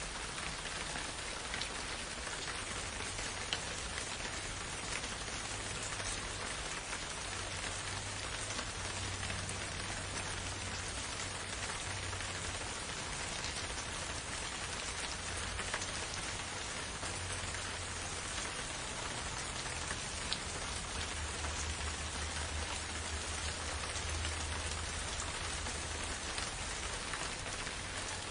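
Steady rain falling, a dense even hiss with scattered louder drop ticks and a faint low rumble underneath.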